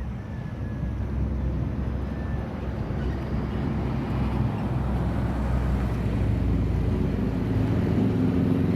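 An engine running steadily with a low drone that slowly grows louder; a higher hum joins it near the end.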